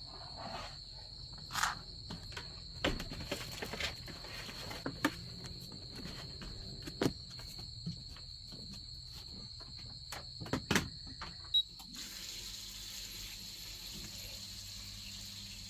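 Steady high-pitched trilling of an insect chorus, with irregular sharp taps and knocks scattered through it; about twelve seconds in a brighter hiss joins.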